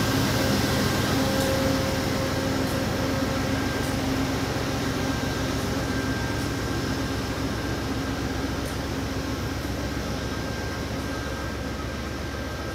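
Connecticut DOT commuter train coaches rolling slowly past the platform: a steady rumble and hum that fades gradually as the last car, the cab car, goes by.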